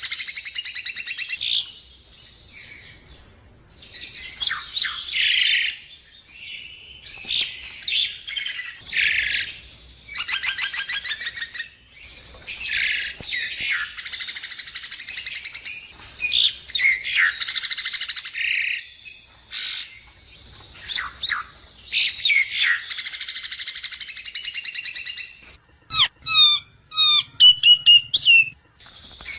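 Javan myna (jalak kebo) singing and chattering in long runs of rapid, rasping repeated notes, the kind of recording played as a 'therapy' track to prompt caged mynas to sing. Near the end it switches to a series of short, clear, separate whistled notes.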